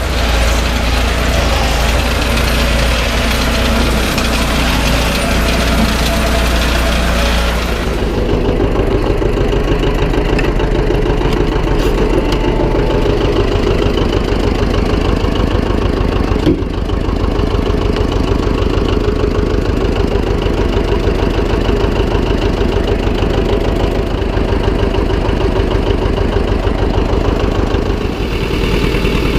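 Tractor engine running steadily at idle, with an even pulsing beat. About eight seconds in, a hissing noise on top of it drops away.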